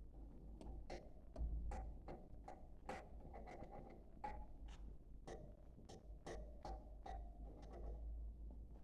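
Budgerigars chattering faintly: a steady run of quick clicks and short chirps.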